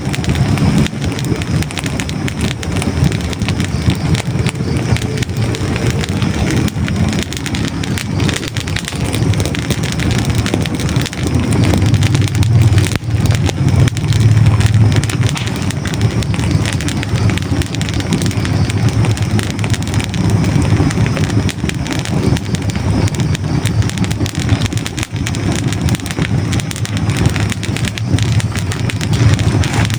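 Hardwood logs burning in a fireplace: dense, crisp crackling and popping over a steady low rumble of flame.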